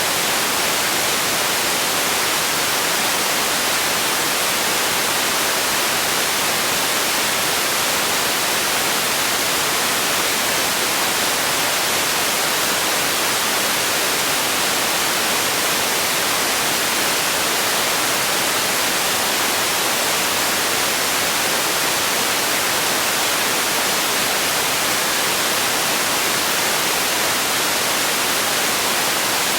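White noise: a steady, even hiss, strongest in the high frequencies, with no change in level.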